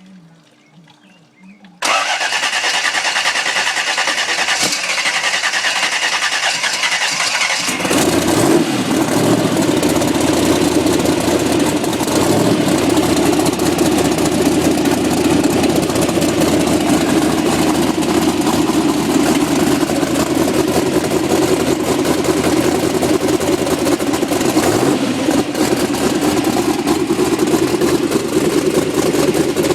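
Twin-turbocharged V8 on its second fire-up: the starter cranks it over from about two seconds in, it catches about eight seconds in, and it then runs steadily and loudly.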